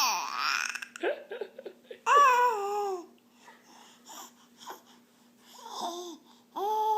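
A 4½-month-old baby babbling and making funny vocal noises: a falling sound at the start, a long drawn-out one with falling pitch about two seconds in, and more short sounds near the end.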